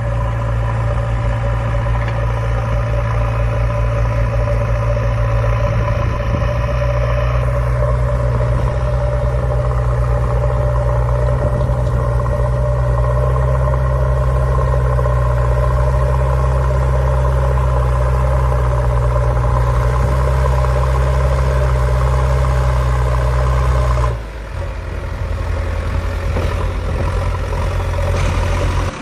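An engine idling steadily with a deep, even hum. About three-quarters of the way through, the sound dips briefly and the engine note changes, then it keeps running.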